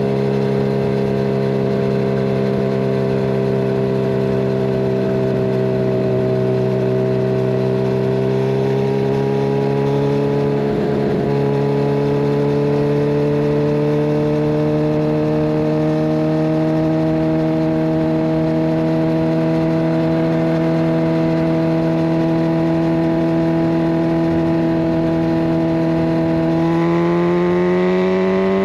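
Kawasaki Ninja 1000SX inline-four running at a steady cruise through a de-catted Scorpion Red Power exhaust. The engine note eases down slightly, climbs gradually, and then rises more quickly under acceleration near the end.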